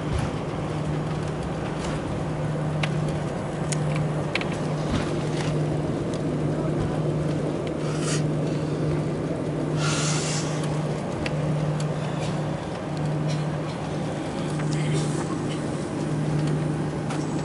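Airbus A340 cabin noise during the landing: a steady roar of engines and airflow with a low hum that swells and fades about every second and a half, plus scattered rattles and clicks from the cabin fittings.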